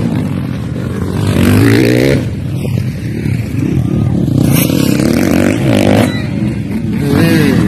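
Motocross dirt bike engines revving, their pitch rising and falling as the riders accelerate and shift, with louder surges near the start and near the end.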